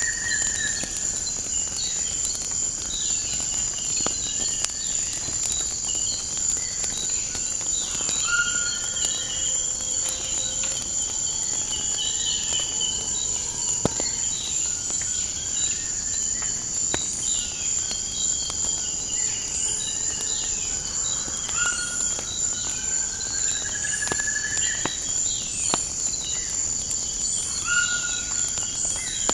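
A steady high trill of crickets under repeated short, rising bird whistles, with scattered sharp crackling pops from a wood fire.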